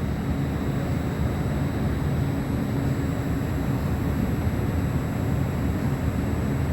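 Train running, a loud steady low rumble with a faint steady high whine above it; it cuts off suddenly at the end.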